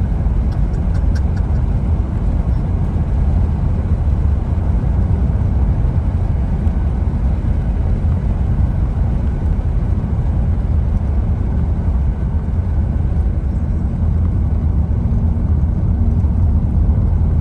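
Steady low rumble of a car driving, heard from inside the cabin: engine hum and tyre noise on the road.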